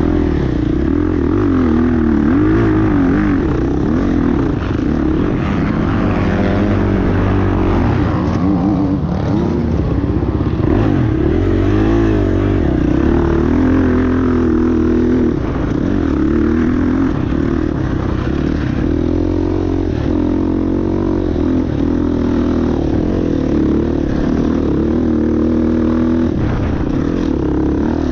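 Motocross dirt bike engines running hard, their pitch rising and falling continuously as the throttle is opened and shut and the gears change.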